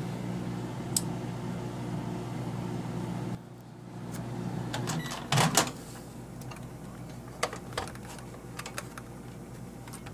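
Microwave oven running with a steady hum, which cuts off about three and a half seconds in; a knock and a few sharp clicks follow, like the door being opened and handled.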